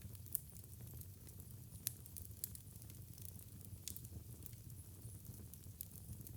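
Wood fire crackling in a fireplace: a steady low rumble of burning with scattered sharp pops, one louder pop just after the start and several smaller ones following.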